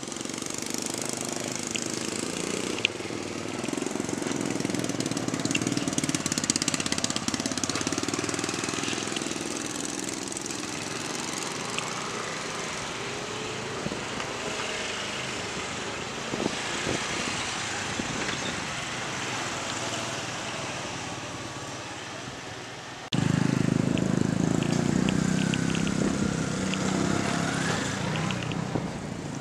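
Road traffic at a railway level crossing: small engines, mostly motorcycles, passing with their pitch rising and falling. The level jumps suddenly about 23 seconds in.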